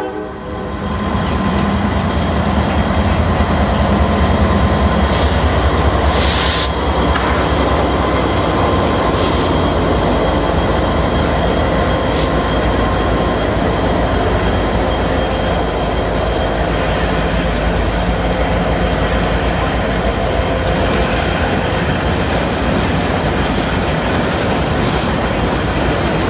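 Freight train passing close by: the diesel locomotives' low rumble for the first six seconds or so, then the cars rolling past with wheels clacking over the rail joints and a thin, steady wheel squeal.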